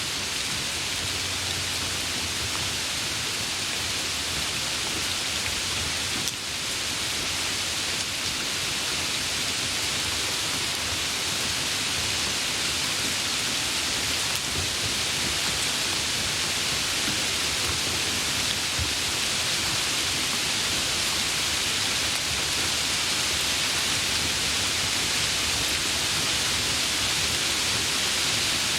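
Steady rain, a dense, even hiss with no single drops or thunder standing out.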